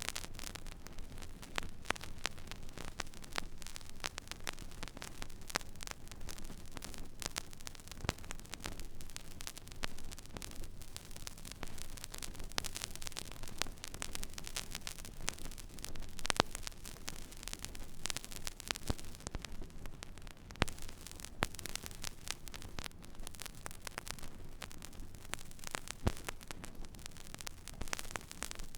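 Stylus riding an empty vinyl record groove: steady surface hiss with frequent irregular crackles and pops, over a faint low hum. A few pops stand out louder, around 16, 20 and 26 seconds in.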